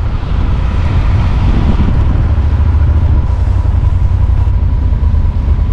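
Motorcycle engine running steadily at low speed, heard from the rider's own bike, with a pulsing low rumble and a hiss of wind over it.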